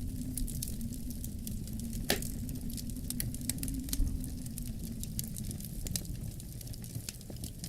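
Wood fire crackling in a fireplace, with frequent sharp pops, one louder about two seconds in, over a steady low rush of wind.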